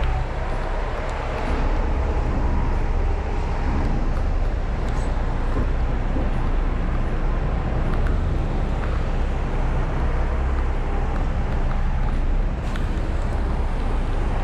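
Heavy diesel truck engine running steadily with a low rumble, under a constant hiss of road and traffic noise.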